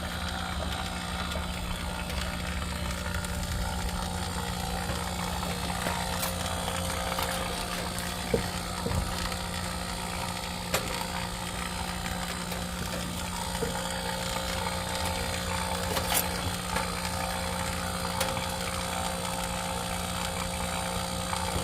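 A steady mechanical drone with a constant low hum, broken by a few sharp clicks about 8, 11 and 16 seconds in.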